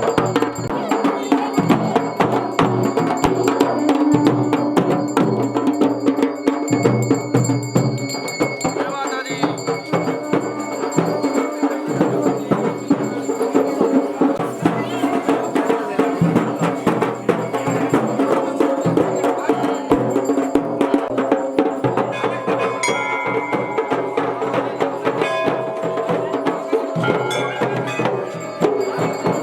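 Dhol and damau drums playing a steady traditional rhythm of dense, even strokes, with voices in the background.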